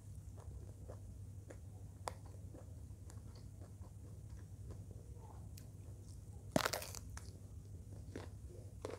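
Close-up eating sounds: soft chewing clicks, then a loud crisp crunch about six and a half seconds in as teeth bite into a whole raw round eggplant, followed by more chewing.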